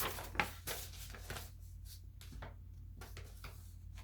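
Items from a subscription box being handled: a few short clicks and rustles in the first second and a half, then fainter scattered ticks, over a low steady hum.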